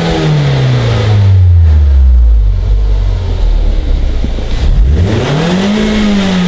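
2015 Scion tC's 2.5-litre inline-four, still on its stock exhaust, revved in neutral and heard from inside the cabin: it falls back from a rev at the start, then revs up again about five seconds in and drops back down.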